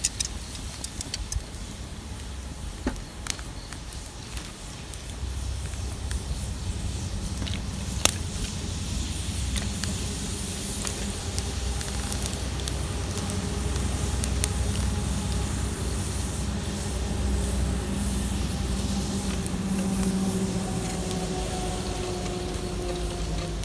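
Wood campfire crackling with scattered sharp pops, one louder pop about eight seconds in. From about five seconds a low engine rumble from something passing at a distance builds up, carrying a tone that falls slowly in pitch.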